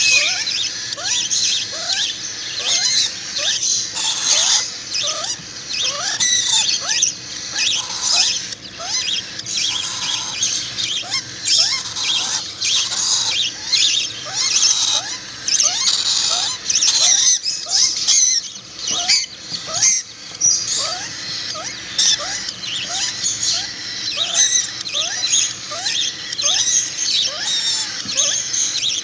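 A group of young hand-reared birds chirping shrilly and continuously, begging for food at a hand-feeding. The calls are short rising chirps that overlap, several a second.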